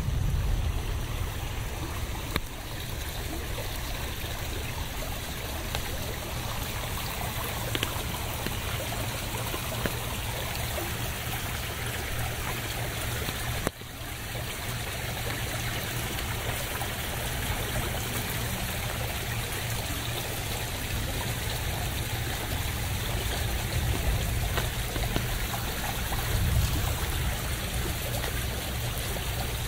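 Steady rain falling, an even hiss with a low rumble underneath. The sound drops out for an instant about fourteen seconds in.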